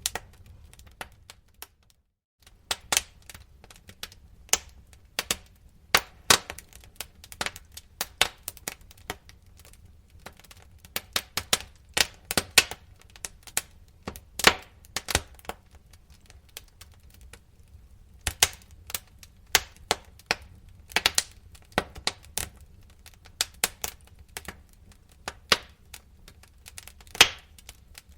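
Wood fire crackling in a fireplace: irregular sharp pops and snaps over a low rumble of burning, with a brief gap about two seconds in.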